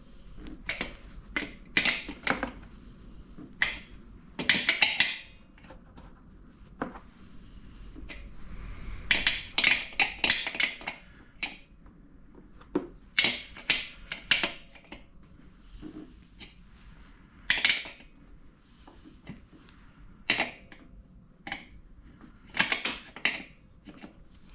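Hand tools working on the metal parts of a pancake air compressor: irregular sharp clicks, clinks and short scraping clusters, with pauses between them.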